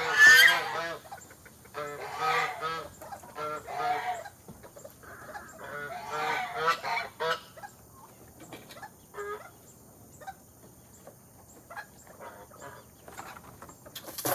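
Geese honking in several bouts of short repeated calls over the first seven seconds, then only a few fainter calls.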